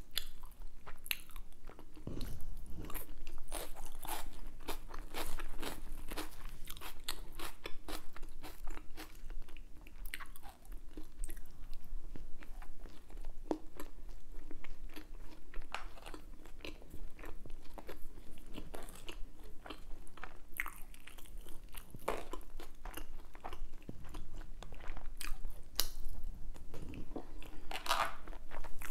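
Close-miked eating sounds: a person chewing and crunching food, with many sharp little clicks throughout.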